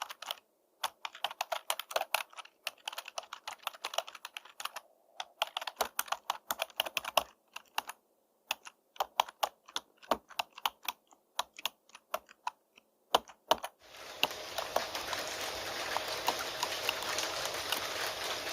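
Typing on a computer keyboard: quick key clicks in bursts with short pauses. About three-quarters of the way through the typing stops and steady rain comes in as an even hiss.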